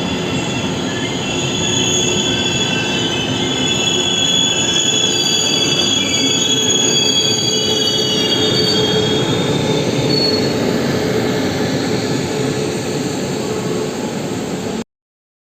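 Taiwan Railways express passenger train pulling in to a stop, its wheels and brakes squealing in several high, wavering tones over the rumble of the train. The sound cuts off suddenly near the end.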